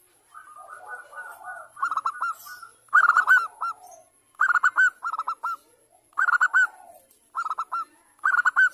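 Zebra dove (perkutut) cooing: short, quick phrases of three or four clipped coo notes, repeated about six times after a softer opening trill.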